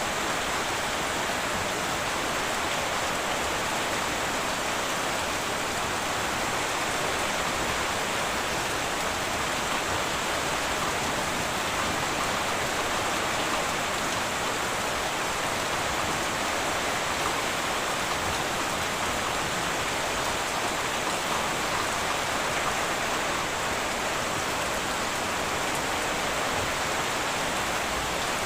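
Heavy rain falling steadily on a tin roof, a constant even hiss with no thunder.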